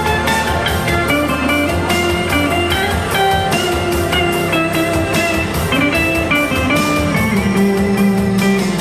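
Live band playing a rock instrumental: a melodic electric guitar line over a steady drum beat and bass.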